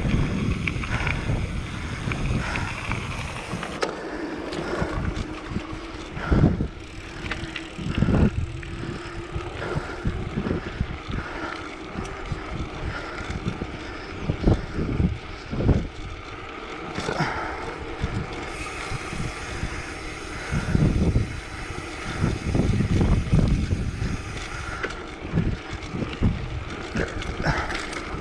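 Wind buffeting the microphone over the noise of a mountain bike rolling along the road into a headwind, with scattered knocks from bumps.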